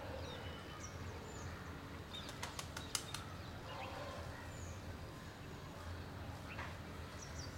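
Birds chirping outdoors: scattered short, high chirps. A quick run of sharp clicks comes between about two and three seconds in.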